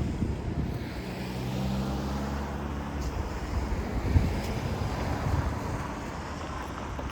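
A vehicle passing, with a steady low engine hum that rises and fades.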